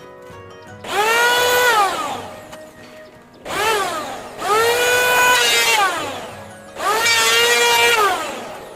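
Electric drill run in four bursts, the first and last two longer and one short, each spinning up to a steady whine and winding down.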